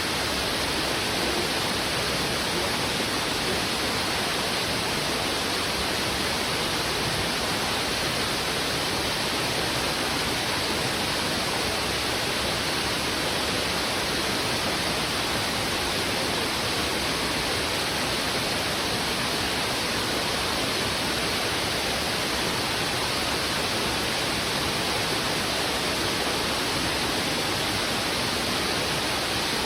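River in heavy flow, water rushing over rocks: a steady, unbroken rush with no separate splashes or other sounds standing out.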